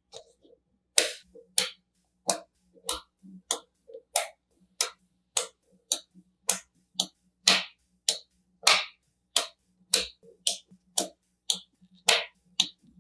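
Colored magnetic building pieces snapping together one after another: sharp clicks, about two a second, with a few quick double clicks.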